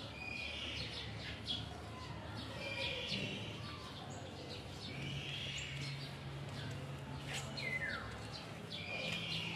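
Birds calling: a run of short, high chirps repeating throughout, with one call sliding downward near the end, over a faint steady background hum.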